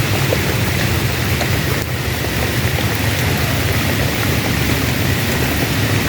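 Heavy rain falling steadily, an even hiss of downpour with a steady low rumble underneath.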